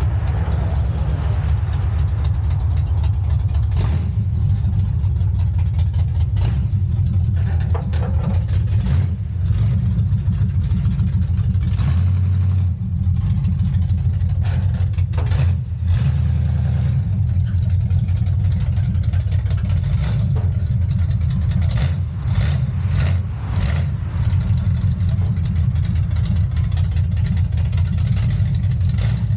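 A truck engine running steadily at low speed, with scattered metallic clicks and knocks over it.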